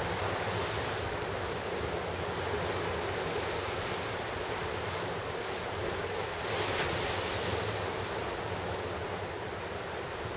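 Ocean surf breaking on the shore, a steady wash of noise with one wave rushing in more loudly about two-thirds of the way through, and wind buffeting the microphone.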